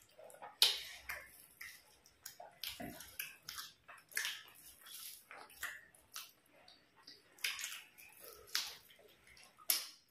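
Two people chewing mouthfuls of rice eaten by hand, with wet lip smacks and mouth clicks coming irregularly, a few each second.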